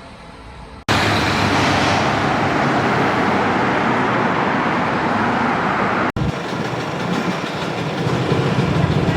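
City street traffic with a car engine running, in clips joined by abrupt cuts about a second in and about six seconds in; after the second cut an engine note grows louder toward the end.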